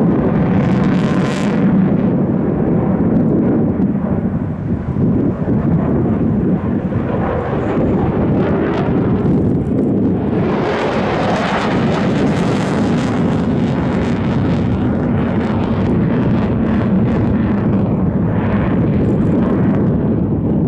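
A military display aircraft's engine making a loud, steady roar, swelling brighter about a second in, again for a few seconds around the middle, and once more near the end.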